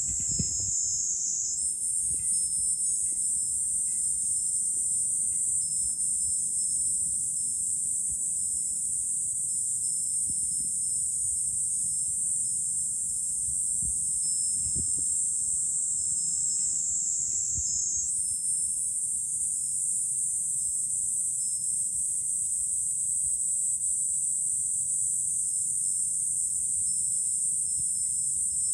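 Cicadas singing in a steady, high-pitched chorus, with the pitch of the chorus shifting about two seconds in and again past the middle. A low rumble of wind on the microphone sits beneath it.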